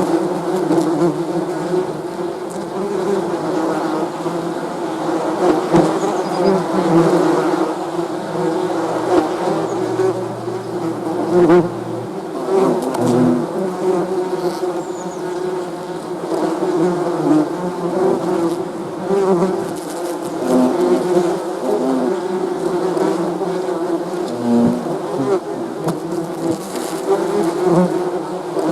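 Many bees buzzing together in a steady hum of overlapping, wavering pitches, with single bees now and then passing closer with a brief, lower buzz.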